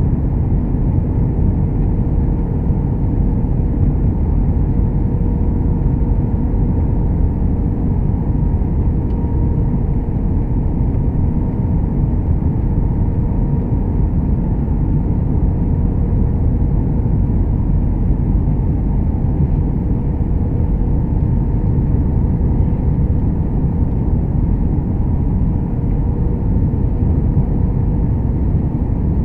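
Steady low rumble of engine and airflow noise heard inside the cabin of an Airbus A321-200 airliner, with a faint steady hum running through it.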